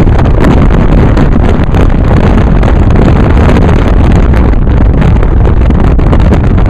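Loud, steady wind buffeting on the camera microphone held at a car window while driving, mixed with the rumble of the moving car.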